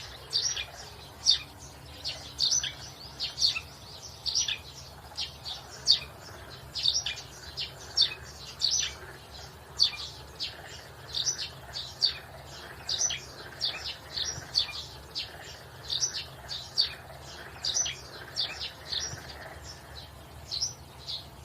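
Birds chirping: a continuous run of short, high, downward-sliding chirps, about two or three a second, over a faint low hum.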